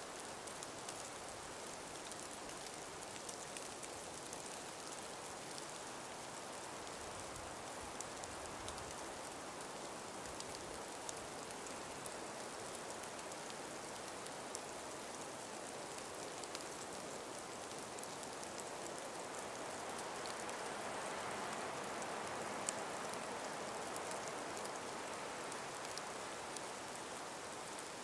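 Faint breeze through an ice- and snow-laden forest: a steady soft hiss that swells about twenty seconds in and eases off near the end, with scattered small ticks throughout.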